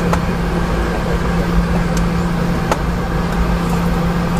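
Cabin noise inside a Boeing 717-200 airliner: a steady hum from its rear-mounted Rolls-Royce BR715 jet engines over a low rumble, with a few faint clicks.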